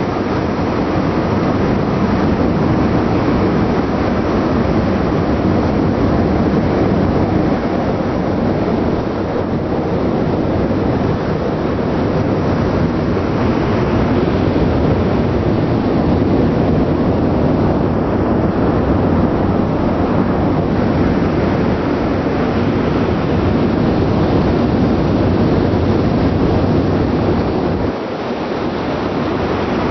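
Steady, loud rushing noise of wind on the microphone mixed with the ship's engine and exhaust on deck at sea, dipping briefly near the end.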